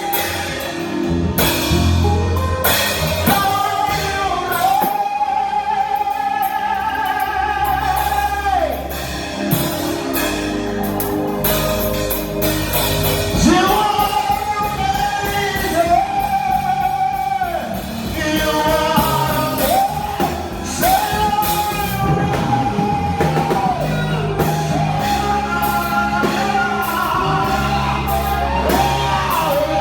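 Live gospel music: a singer holding long sustained notes over a band with drums, bass and guitar, echoing in a large hall.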